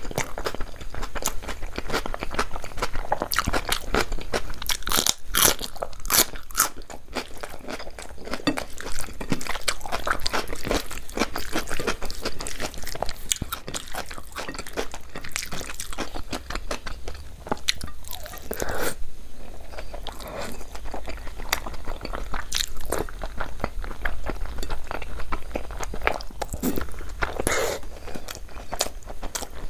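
A person chewing and crunching food close to the microphone: dense, irregular crisp crackles and wet mouth clicks throughout.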